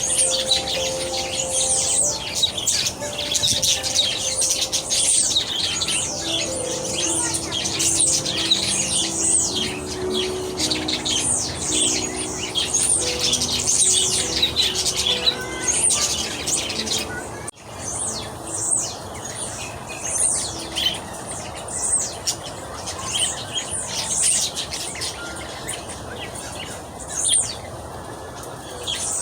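Many small birds chirping together in a dense, continuous chorus of quick, high, downward-sweeping chirps, with a brief break just past the middle.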